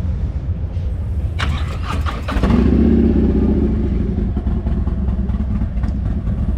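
Motorcycle engine running with a steady low rumble, getting louder from about two seconds in, just after a short burst of noise.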